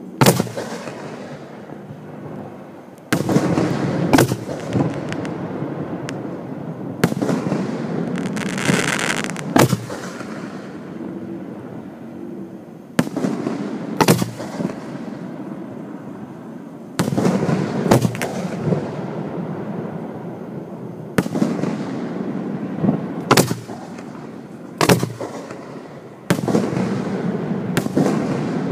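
Aerial firework shells going off at close range: about fifteen sharp booms, one to four seconds apart, each trailing off slowly over a continuous low rumble. A hiss comes in about eight to ten seconds in.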